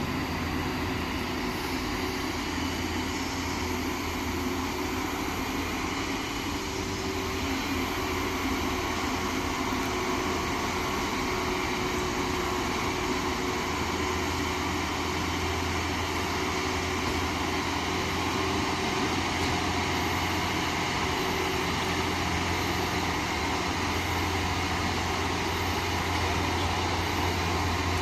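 Heavy truck engine running steadily under load, labouring up a steep climb.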